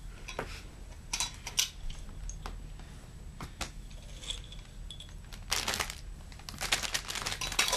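Rustling and crinkling with scattered light clicks, busier in a couple of bursts in the second half.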